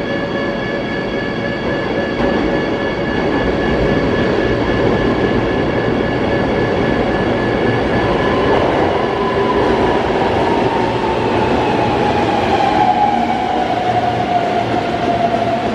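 Keihan electric train running through the underground station, a steady rumble of wheels and running gear. From about halfway a motor whine glides steadily down in pitch as the train slows.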